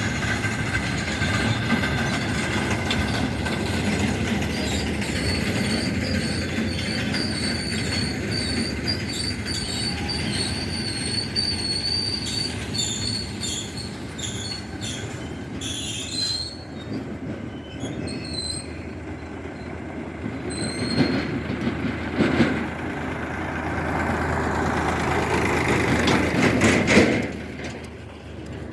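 Indian Railways car-carrier freight train rolling past, its wheels rumbling steadily on the rails. A high wheel squeal rings out through the first half, and knocks from rail joints come and go later.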